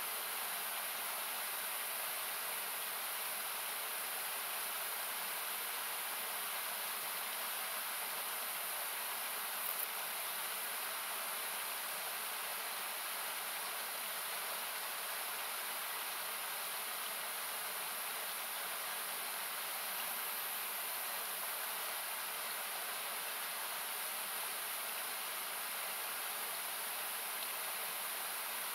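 Steady rushing of a river or waterfall, equalized into a hiss-like noise. A single campfire crackle pops out about ten seconds in.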